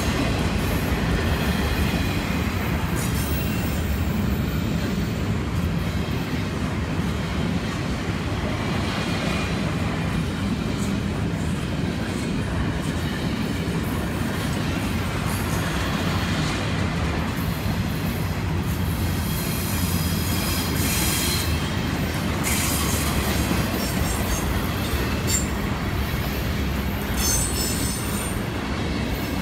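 Double-stack intermodal freight train's well cars rolling past at close range: a steady rumble of steel wheels on rail, with brief high-pitched wheel squeals now and then.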